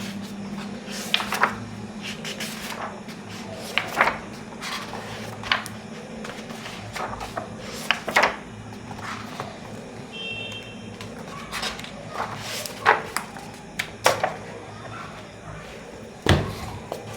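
Pages of a book being turned during a flip-through: quick paper flips and handling knocks every second or two, over a low steady hum.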